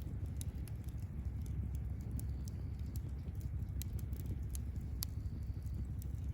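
Wood campfire crackling, with frequent sharp pops at irregular intervals, a louder one about five seconds in, over a steady low rumble.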